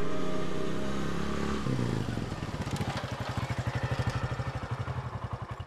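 Piano music fades out and gives way to a small engine running at idle with a steady, rapid low beat of several pulses a second.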